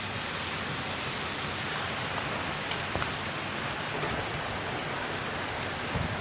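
Shallow mountain stream flowing, a steady, even rushing of water, with a few faint ticks.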